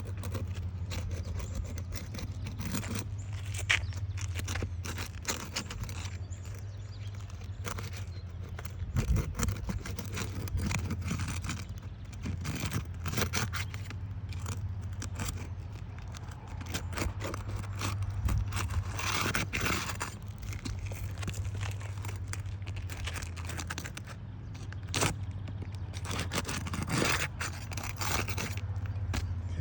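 A crowbar scraping and clicking irregularly as it is worked under roof shingles to pry them loose.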